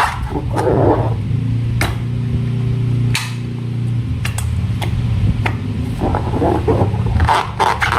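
Slime and balloons being handled: several sharp clicks and a crackly, sticky texture, strongest near the end, over a steady low hum that fades out about six seconds in.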